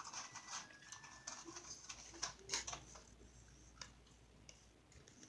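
Faint, irregular chewing and mouth sounds from eating, with scattered small clicks and crackles that thin out after about three seconds.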